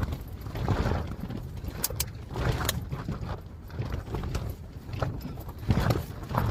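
Strong wind buffeting the tent and rumbling on the microphone in uneven gusts, with a few sharp clinks of a utensil against cookware about two seconds in and again shortly after.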